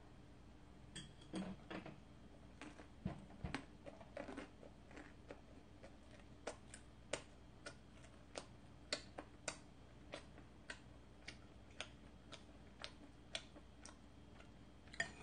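Close-miked chewing of a mouthful of cream pasta and bread, a soft wet click about every half second. A couple of soft knocks come a few seconds in.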